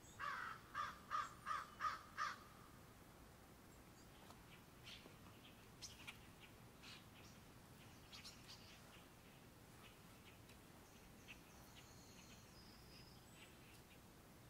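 A bird gives six harsh, cawing calls in quick succession, then scattered faint chirps and ticks follow.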